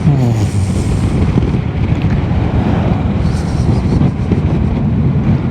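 Motorcycle riding with heavy wind noise buffeting the microphone and the engine running underneath; the engine note falls in the first half second as the revs drop.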